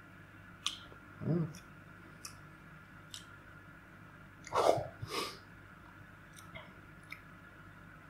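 Mouth sounds of someone chewing a hot chili pepper: scattered wet clicks of the tongue and lips, a short closed-mouth hum about a second in, and a louder breath about four and a half seconds in. Under it runs the faint steady hum and bubbling of an aquarium air pump.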